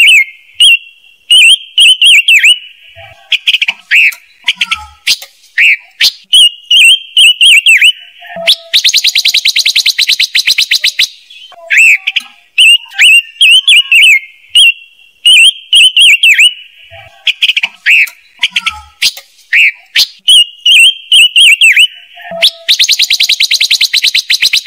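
Lure recording of the bird sold as 'ngũ sắc' (agitated calls used to excite and draw birds to a trap speaker): rapid sharp chirps and short whistled notes. About eight and a half seconds in comes a fast rattling trill lasting two to three seconds. The same sequence then repeats, with the trill returning near the end.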